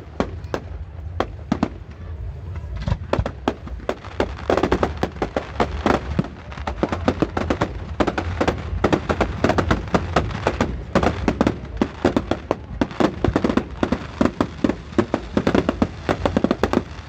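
Fireworks display: a rapid run of bangs and crackling pops, several a second, growing denser about four seconds in and continuing thick to the end.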